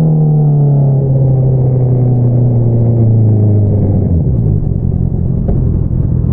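Honda CBR650R inline-four engine running through an Akrapovič single-outlet exhaust, its note slowly falling in pitch with a brief dip about four seconds in.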